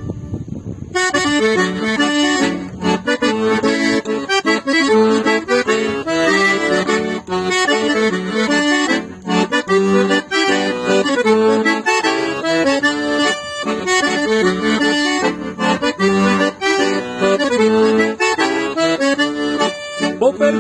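Accordion playing the instrumental introduction of a traditional gaúcho song: a lively, rhythmic melody over chords that starts about a second in.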